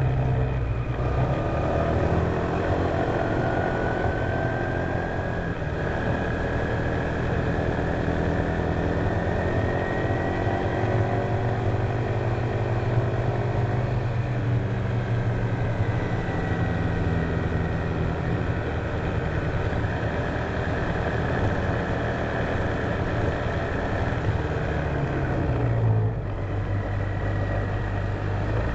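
Honda PCX150 scooter's single-cylinder four-stroke engine running steadily under way, mixed with wind and road noise. A higher whine rises and falls gently with the throttle, and there is a brief change in the engine note about 26 seconds in.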